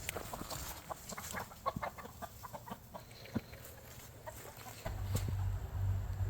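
Chickens clucking in short, scattered calls, with a steady low hum setting in suddenly about five seconds in.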